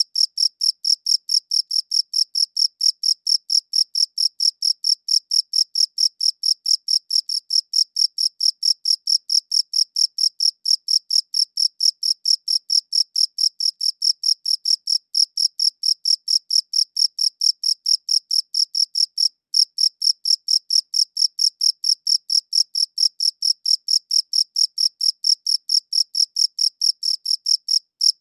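A cricket chirping in a steady, even rhythm of about four high-pitched chirps a second, broken by one short pause about two-thirds of the way through.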